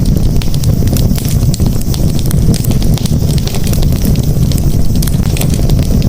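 Campfire crackling, with many sharp irregular snaps and pops over a steady low rumble.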